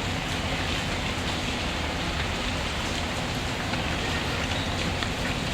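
Steady rain falling, with a low rumble and scattered faint crackles from a wood fire in a fireplace.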